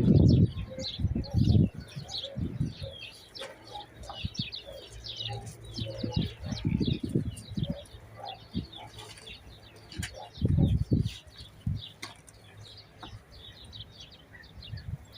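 Small birds chirping busily throughout, with a few louder low thumps or flutters near the start, around the middle and about two-thirds of the way through.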